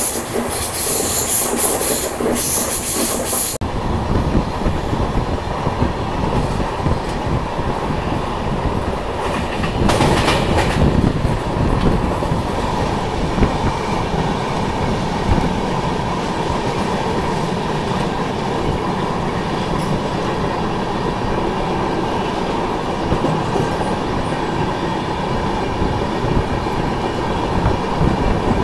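Passenger express train running at speed, heard from an open coach door. For the first few seconds a high wheel squeal from the curve. It then cuts abruptly to a steady low rumble and clatter of wheels on rails as the train crosses a long river bridge.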